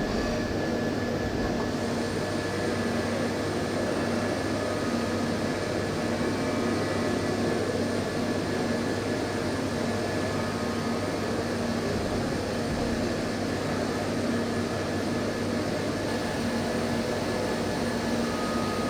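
Hermle C400 CNC machining centre milling: a steady run of spindle and cutting noise with a constant hum, and short higher tones from the cut that come and go.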